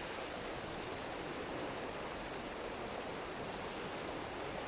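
Steady, even background hiss with nothing else happening.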